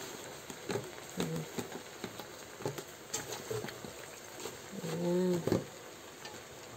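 Saluyot (molokhia) leaves frying in oil: a steady sizzle with scattered crackles and clicks. A short hummed, voice-like sound comes about five seconds in.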